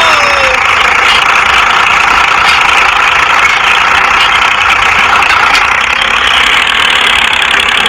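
Small mini-tractor motor running steadily with an even, high-pitched mechanical drone.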